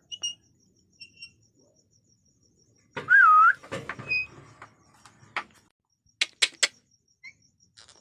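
A rose-ringed parakeet gives a single loud whistle about three seconds in, its pitch wavering down and up, followed by a short high chirp and a few sharp clicks.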